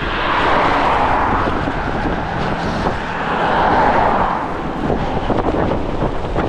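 Strong gusty wind buffeting the microphone, with two road vehicles passing close by, their tyre and road noise swelling up and fading, the first about half a second in and the second around three and a half seconds in.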